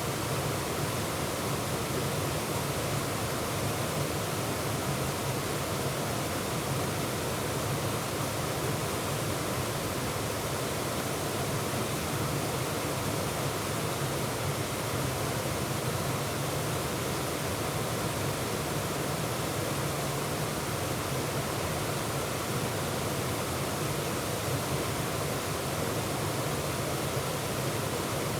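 Waterfall heard from close up in the middle of the falls: an even, unbroken rush of falling water.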